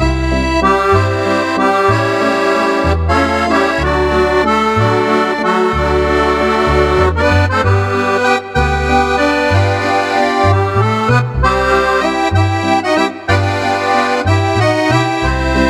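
Roland FR-8X digital accordion playing a tune with its Cordovox-style voice: sustained reedy chords over a stepping bass line, with two brief breaks in the playing.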